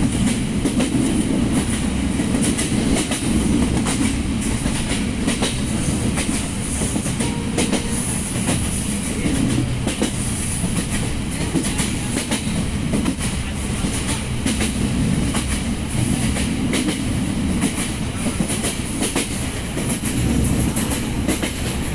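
Passenger train running along the line, heard from on board: a steady rumble of wheels on rails with frequent clicks and clacks from the wheels passing over rail joints.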